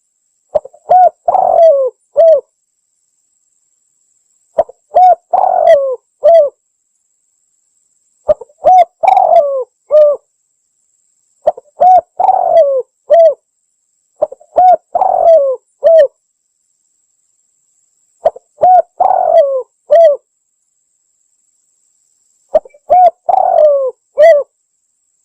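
Spotted dove (tekukur) cooing, played as a trapping lure call: a phrase of several low coos repeated seven times, about every three and a half seconds, with dead silence between phrases.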